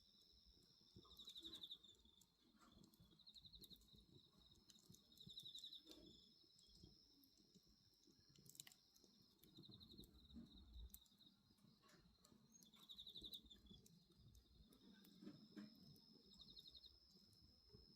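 Faint night insects: one holds a steady high trill while another sings short pulsed chirps about every two to three seconds. Faint crackles and pops of a wood bonfire sound in between.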